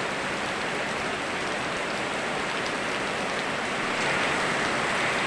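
Steady rain falling, a dense even hiss with faint scattered drop ticks, growing slightly louder about four seconds in.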